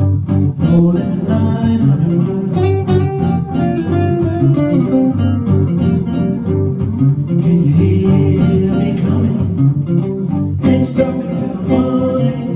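1953 Gibson ES-125 hollow-body electric guitar playing a blues instrumental, a run of single notes and phrases over a low bass line.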